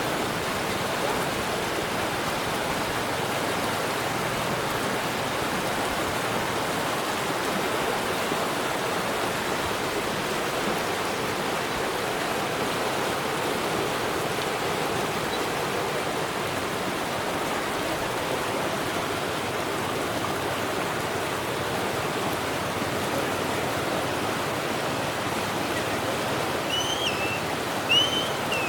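Steady rush of water, the even hiss of rain or flowing floodwater. A few short high chirps sound near the end.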